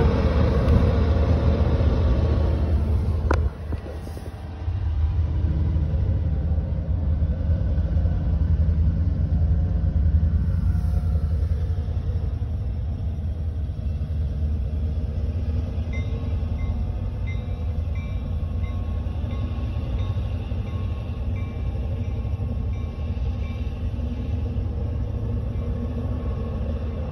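Diesel freight train passing slowly, a locomotive and a string of gondola cars rumbling along the track, heard from inside a car. The low, steady rumble dips briefly a few seconds in.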